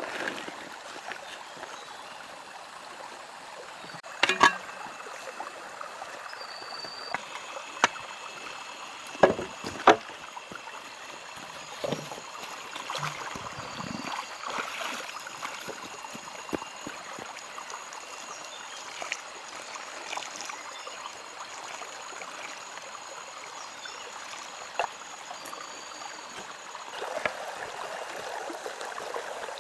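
A steady rushing like a flowing stream, broken by a few sharp knocks, the loudest clustered in the first ten seconds, with a few short high whistles.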